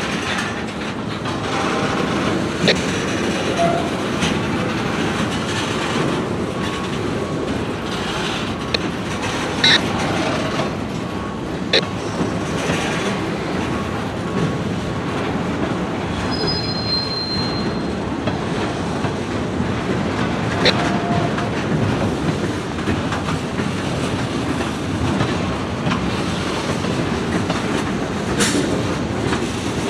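Freight train cars rolling past on steel rails: a steady rumble with scattered sharp clicks from the wheels, and a brief high wheel squeal about halfway through.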